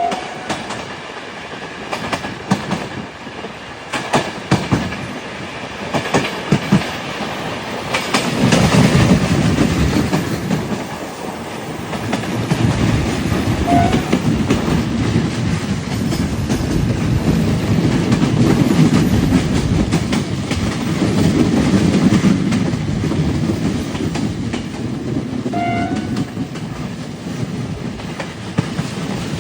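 Train wheels clacking over the rail joints: a run of distinct clicks for the first several seconds, then from about eight seconds in a louder, steady rolling rumble with the clacks still coming through.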